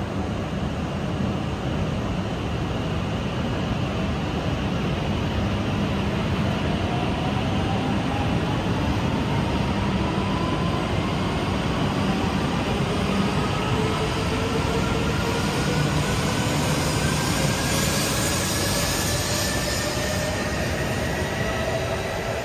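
E6-series Shinkansen train pulling out of the station and accelerating, its running rumble overlaid by several electric motor whines that climb steadily in pitch.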